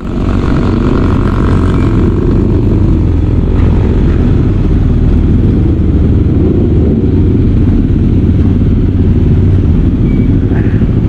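Motorcycle running at road speed, its engine drone mixed with heavy, steady wind rush on the microphone.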